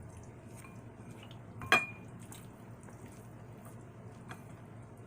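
A single sharp clink of a utensil against a dish, ringing briefly, about a second and a half in, amid faint small clicks of eating.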